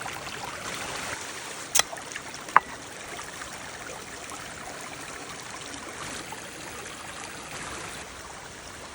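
Steady rushing noise, with two sharp knocks a little under a second apart about two seconds in.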